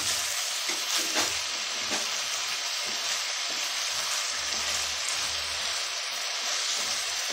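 Chopped onions, chicken mince and freshly added chopped tomatoes sizzling in hot oil in a non-stick kadai while being stirred with a wooden spatula: a steady frying hiss, with a few scrapes of the spatula against the pan in the first two seconds.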